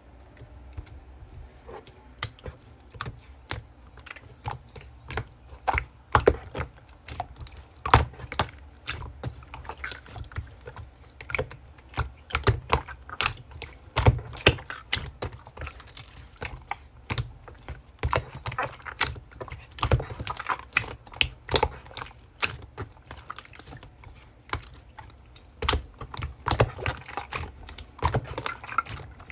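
Slime being squished and poked by hand, giving a steady run of irregular wet clicks and pops, several a second, that start about two seconds in.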